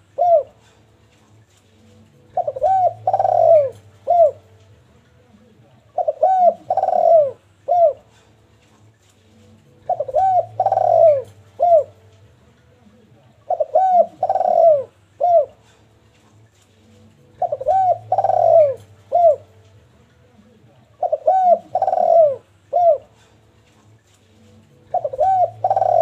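Derkuku dove cooing: a phrase of about four coos, the last one short, repeated evenly about every three and a half seconds, seven times.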